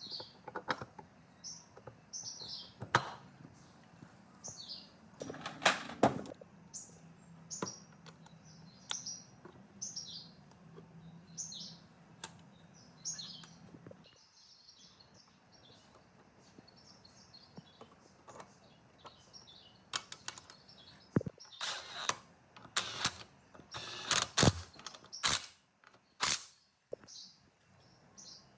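A small bird chirping over and over in the background, short high calls every second or so. Sharp clicks and knocks come now and then, most densely in a cluster near the end, and a low hum stops about halfway through.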